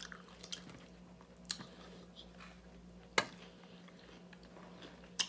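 Quiet chewing of a mouthful of salad, with a few sharp clicks about a second or two apart.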